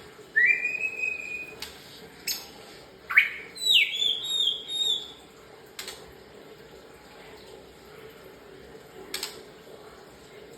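A murai songbird singing loud whistled phrases: a rising held whistle, then a quick run of downward-sweeping notes, in the first half. After that come a few sharp clicks against a steady low hum.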